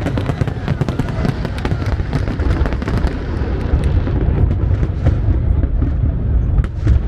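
Fireworks going off in rapid succession: many sharp crackles and pops over a continuous low rumble of bursts, the high crackling thinning out about halfway through.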